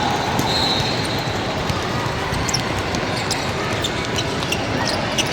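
Basketball game in a gym: a ball bouncing on the hardwood, with many short sharp ticks and squeaks over a steady background of gym noise.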